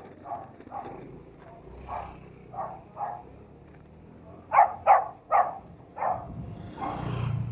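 A dog barking repeatedly, short barks about every half second, with three louder barks in quick succession about halfway through.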